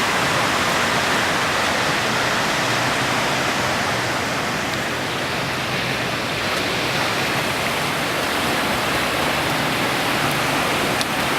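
Steady, even rushing noise of the hurricane storm, with one short sharp click near the end.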